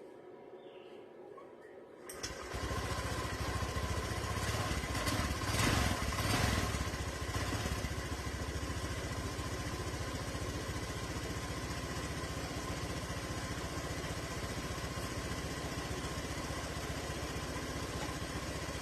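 Honda Vario Techno scooter's single-cylinder four-stroke engine catching about two seconds in, revved twice briefly, then idling steadily through its newly replaced exhaust header pipe.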